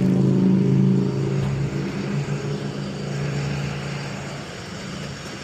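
A motor vehicle's engine running with a steady low hum that slowly fades over several seconds.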